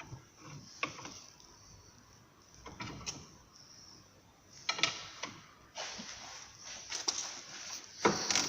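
Irregular clicks, knocks and scraping of metal suspension parts being worked loose and handled while a front upper control arm is removed, with one sharper knock near the end.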